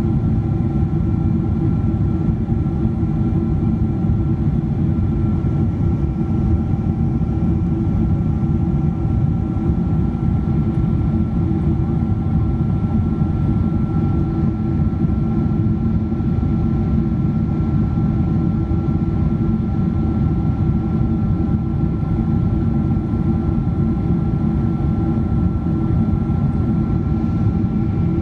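Steady in-flight cabin noise of a Boeing 777-200ER: a constant low rush of air and engine noise with several steady whining tones from its Pratt & Whitney PW4090 engines, holding at one power setting.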